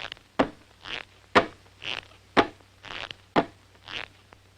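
Cartoon sound effects in a steady creeping rhythm: a sharp click about once a second, each followed half a second later by a short breathy hiss.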